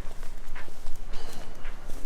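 Footsteps on a hard street surface: irregular sharp knocks several times a second over a steady background of street noise.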